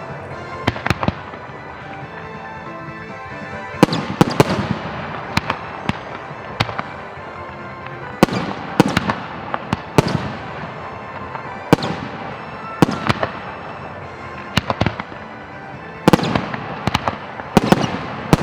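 Aerial fireworks bursting, a string of sharp bangs, some in quick clusters, each with a trailing echo, over steady background music.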